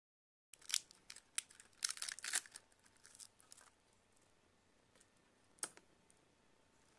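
Crinkling and tearing crackles of plastic being handled: a dense run of sharp crackles for about three seconds after the sound cuts in, then fainter ones and a single sharp crack a little past the middle.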